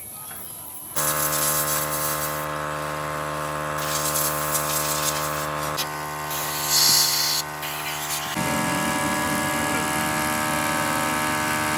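A machine starts up about a second in and runs with a steady hum. Its tone shifts about six seconds in and again near eight seconds, with a short burst of hiss around seven seconds.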